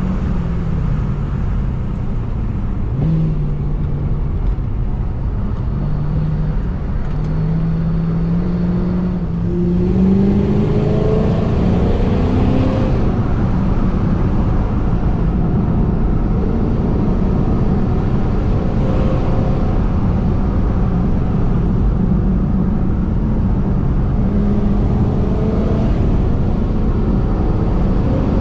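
Supercharged 4.6-litre V8 of a 2006 Ford Mustang GT being driven. The engine note climbs in pitch under acceleration from about eight seconds in and gets louder near ten seconds, drops back around thirteen seconds, then runs at a steadier pitch over low road rumble.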